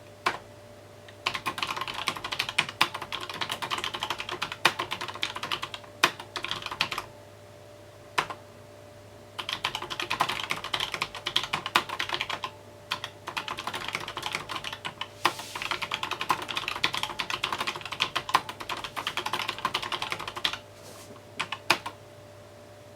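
Typing on a mechanical keyboard: fast runs of keystrokes in three long bursts, with pauses of a second or two and a few single key presses between them, over a faint steady hum.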